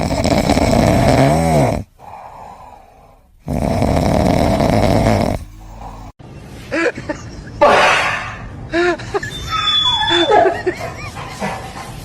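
A sleeping pet snoring loudly: two long, rasping snores about three and a half seconds apart. After a sudden change about six seconds in come many short, high squeaks and chirps that rise and fall in pitch.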